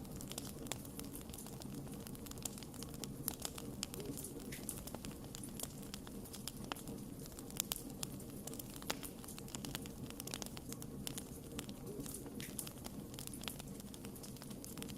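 Wood campfire crackling: frequent irregular sharp pops and snaps over a steady low rush of the flames.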